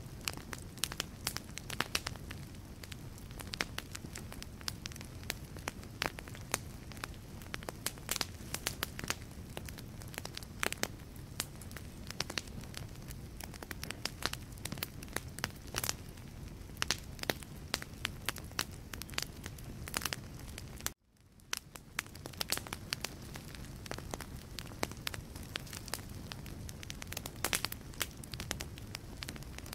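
Wood fire burning in a fireplace: logs crackling and popping irregularly over a steady low rush of flame. About two-thirds of the way through, the sound cuts out for a moment and fades back in.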